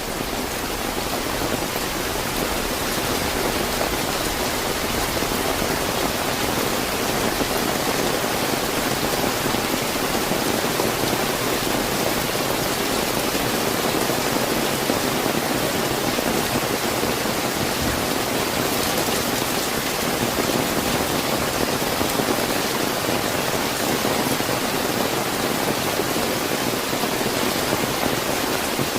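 Steady, fairly heavy rain falling and pattering on surfaces, a dense even hiss that fades in over the first second or two.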